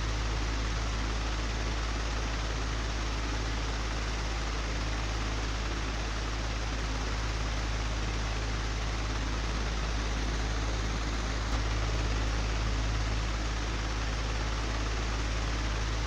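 Old, broken electric fan running steadily: an even whooshing noise over a strong low hum. One small click about twelve seconds in.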